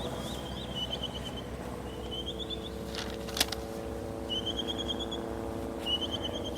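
A bird calling outdoors in short phrases of rapid, high chirping notes, four times, over a steady low hum. A sharp click sounds about three and a half seconds in.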